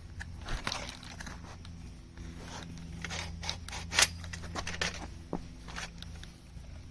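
Irregular clicks, knocks and short scrapes of aluminium chainsaw-mill parts and hardware being handled and adjusted during assembly, with one sharp click about four seconds in.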